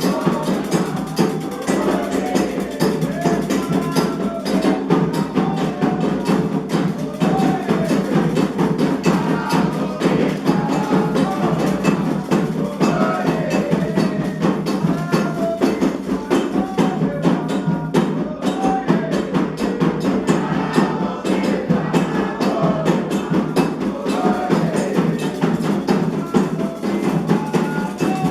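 Candomblé ritual music: hand drums played in a dense, fast rhythm, with a sharp struck percussion pattern and voices singing over them.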